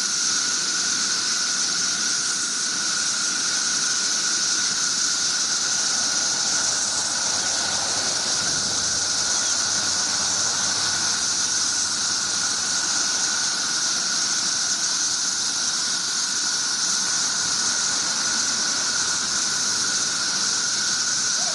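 Chorus of many cicadas: a steady, shrill high-pitched drone with a second, lower whine under it, unbroken and not changing in level.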